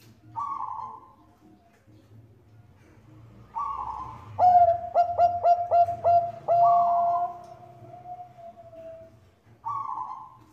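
Zebra dove (Bangkok perkutut) singing. A short coo comes about half a second in and another just before four seconds. Then a run of about six quick, clipped coos leads into one long drawn-out note that sinks slightly in pitch and fades, and a final short coo comes near the end.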